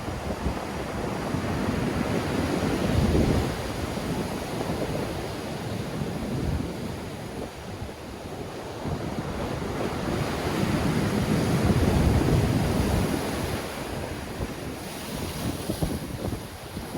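Black Sea waves breaking in a strong wind, with wind buffeting the microphone. The surf swells loudest about three seconds in and again around twelve seconds.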